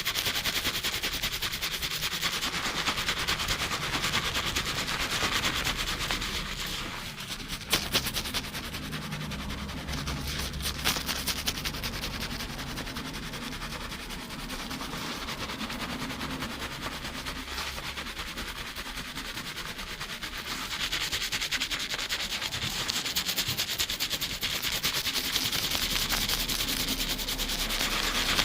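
Fingers scrubbing a head of hair lathered with shampoo foam, a fast, dense crackle of rubbing bubbles. It is louder for the first six seconds and again for the last seven, softer in between.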